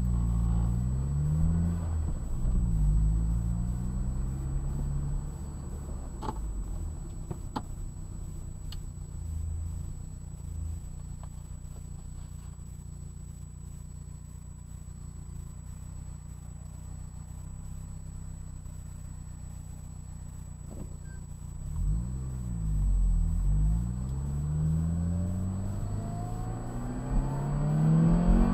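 1999 Saab 9-3 Turbo's engine heard from inside the cabin, accelerating hard with its pitch climbing and dropping back at each gear change. It then settles to a low steady rumble at a stop, and pulls away again near the end, climbing through several quick upshifts.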